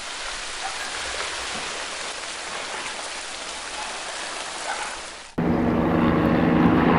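A steady, even rushing hiss like heavy rain. About five seconds in it cuts off abruptly to a louder low rumble with a steady hum.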